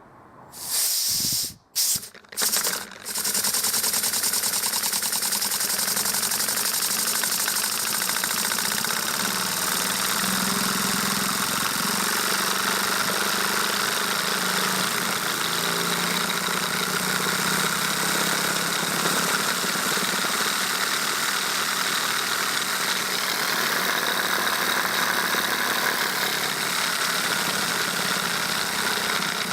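Wooden two-cylinder single-acting oscillating (wobbler) engine run on compressed air. The air is cut in and out a few times in the first seconds, then the engine runs steadily with a continuous hiss of air.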